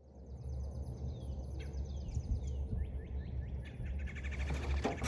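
Several small birds chirping and calling: many short falling chirps and quick trills, over a low steady rumble.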